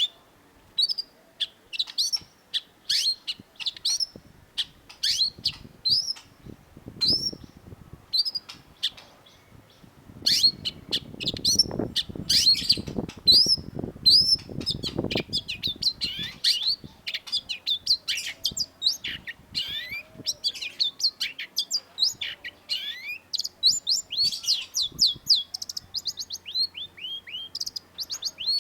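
Long-tailed shrike (cendet) singing a loud, sharp song of short, repeated falling notes, spaced at first, then coming thick and fast in rapid runs toward the end.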